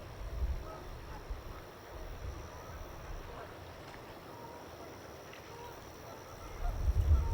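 Scattered short calls of distant waterfowl by a lake. Low wind rumble on the microphone fades in the first second or so and rises again near the end.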